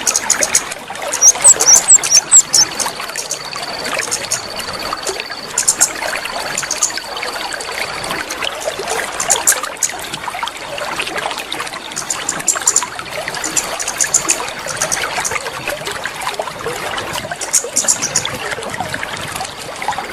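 Water trickling steadily, with high chirps coming and going over it and a thin steady high tone at times. It is a water-therapy sound played to coax a kemade bird that has stopped singing back into song.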